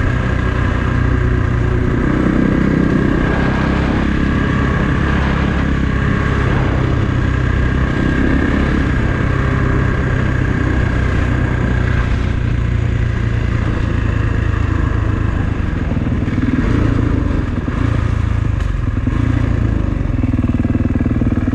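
Kawasaki KX450 single-cylinder four-stroke dirt bike engine running steadily while being ridden, with small rises and falls in throttle.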